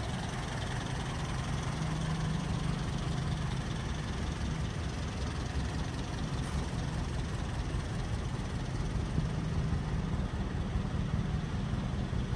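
1962 Sunbeam Rapier IIIA's 1.6-litre four-cylinder engine idling steadily.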